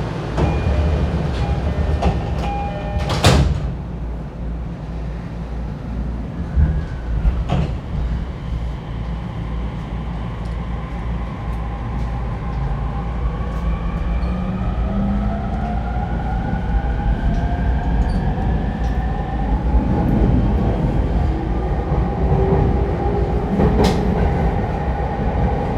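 Inside a refurbished E231-1000 series commuter train at a station stop: a short chime, then the sliding doors shutting with a thump about three seconds in. From about eleven seconds in the inverter and traction motors whine in several tones rising together as the train pulls away and accelerates.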